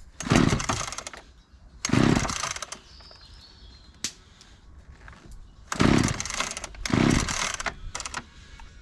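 Small petrol engine being started: it fires in four short bursts, each dying away, without catching and running.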